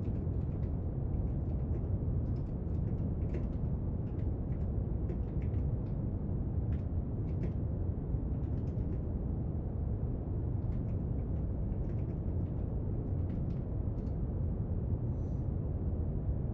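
Steady brown noise, an even low rumbling hiss, with faint scattered small clicks and taps of desk work over it.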